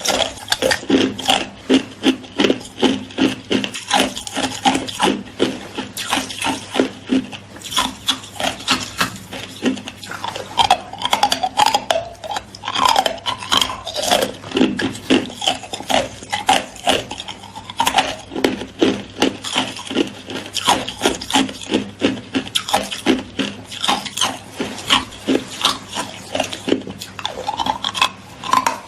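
Hard ice being bitten and chewed close to the microphone: a continuous run of sharp crunches and crackles, a few each second.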